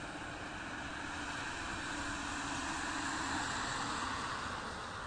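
Car driving: a steady rush of road and engine noise that swells a little in the middle and eases off near the end.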